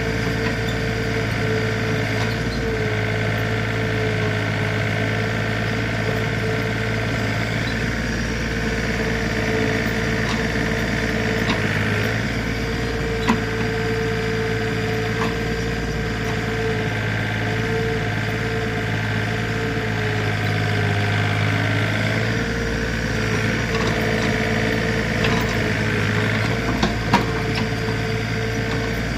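Backhoe engine running steadily, its pitch holding while its level swells and eases now and then, with a sharp knock about 13 seconds in and another near the end.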